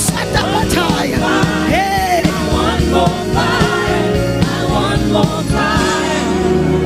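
Live gospel worship music: a voice singing wordless, bending lines over held keyboard chords and a steady beat.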